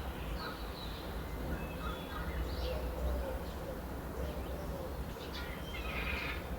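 Wild birds calling outdoors: scattered short high chirps, and a couple of lower gliding calls a few seconds in, over a steady low rumble.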